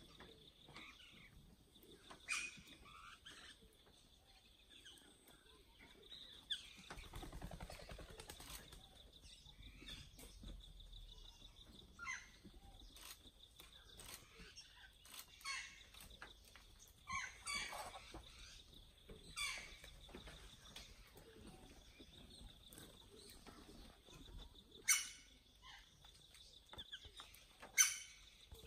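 Wild birds chirping and calling in short scattered notes, with a steady high buzzing tone underneath and two sharper, louder calls near the end.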